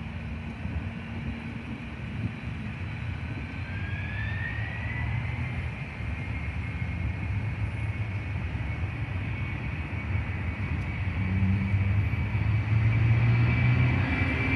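Boeing 767 jet engines spooling up for takeoff: a whine rises in pitch a few seconds in and then holds steady, over a low rumble that grows gradually louder.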